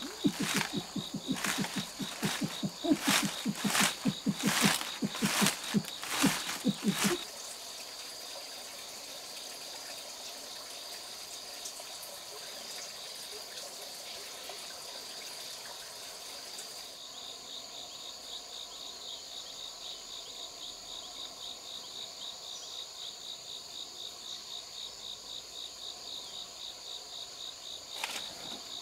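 Steady high chirring of crickets and other insects, a continuous trill with a fine rapid pulse. For about the first seven seconds a louder, low-pitched pulsing call sounds over it and then stops abruptly.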